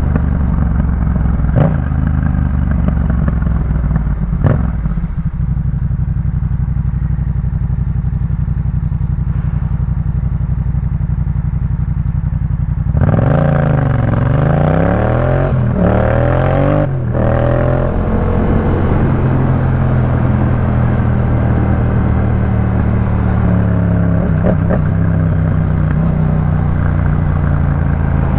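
Yamaha MT-07's 689 cc parallel-twin engine through a Jeskap K4 full exhaust, running at a steady engine speed with a couple of sharp clicks. About thirteen seconds in it revs up, the pitch rising and dropping several times over a few seconds, then it settles back to steady running.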